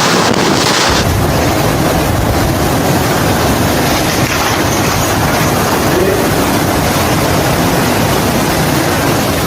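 Loud, steady storm noise: strong cyclone wind blowing hard across the microphone, with a deeper rumble setting in about a second in.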